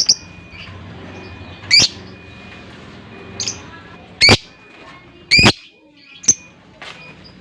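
Lovebird giving short, shrill chirping calls, about seven in all, at irregular gaps of roughly a second; the loudest two come about four and five seconds in.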